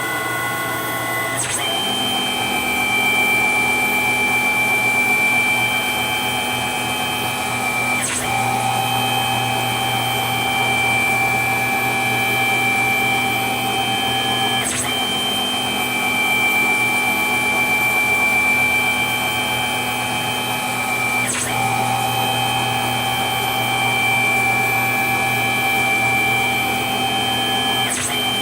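Tormach 15L Slant-Pro CNC lathe running its warm-up program, which brings the spindle up to temperature and lubricates the ways and ballscrews. Its motors make a steady whine of several tones, with a brief break and a small shift in pitch about every six and a half seconds.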